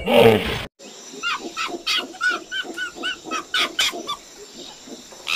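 An animal gives a rapid series of short, high-pitched calls, about three a second, each rising then falling in pitch. Before them, a loud sound cuts off suddenly in the first second.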